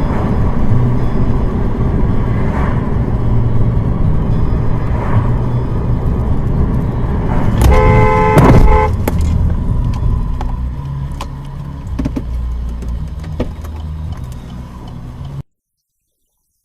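Car driving, with steady engine and road rumble heard from inside. A car horn sounds once for about a second midway. The sound cuts off suddenly near the end.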